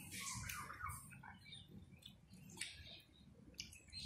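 Faint wet mouth clicks and smacking of a child chewing a bite of fried fish, with a few short high chirps in the first second.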